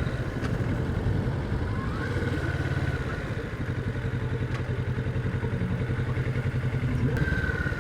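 Kawasaki Vulcan 650 parallel-twin motorcycle engine running steadily at low revs while riding slowly through city streets.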